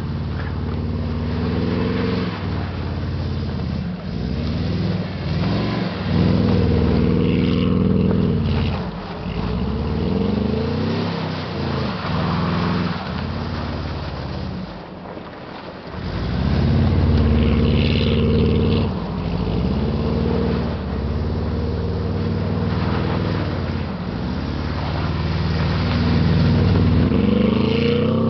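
1999 Subaru Legacy Outback's flat-four engine, fitted with unequal-length headers and a 2.5-inch cat-back exhaust, revving up and down over and over as the car drifts on snow. The revs fall away briefly about halfway through, then climb hard again.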